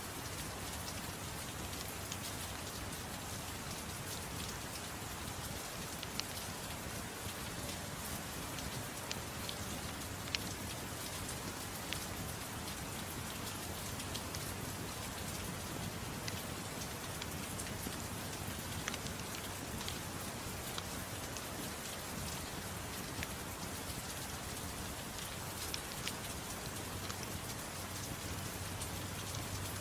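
Steady gentle rain: a constant even hiss with scattered small sharp ticks.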